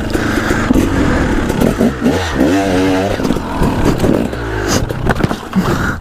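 Dirt bike engine revving hard in bursts, its pitch rising and falling as the throttle is worked over rocky ground. Several sharp clattering, scraping knocks near the end as the bike strikes rock.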